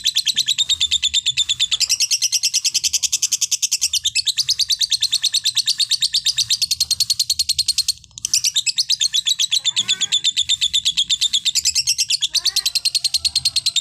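A songbird giving a long, rapid, high-pitched trill of evenly repeated notes, broken by a short pause about eight seconds in.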